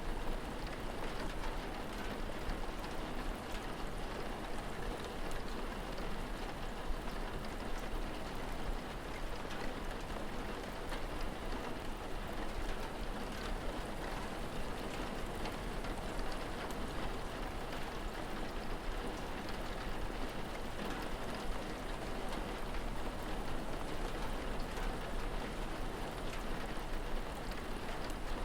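Steady rain falling, with scattered drop ticks and a constant low rumble underneath.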